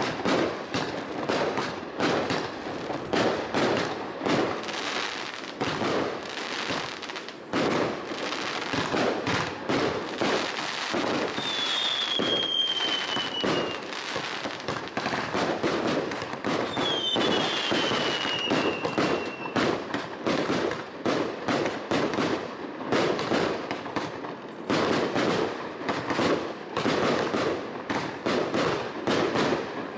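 Professional fireworks display: a dense, continuous barrage of bangs and crackling shell bursts. Two whistles glide downward in pitch in the middle.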